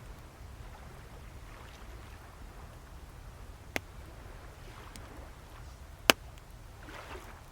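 Bonfire crackling with two sharp pops, the second louder, over a low steady rumble of sea waves with soft swells of surf washing in.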